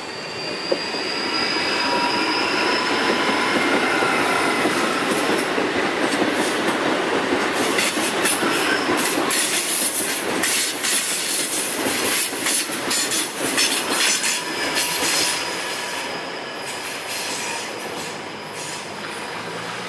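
CPTM electric multiple-unit commuter train passing close by: a high whine for the first few seconds as the cab goes past, then a long run of rapid clicks as the cars' wheels cross the rail joints, easing off for the last few seconds.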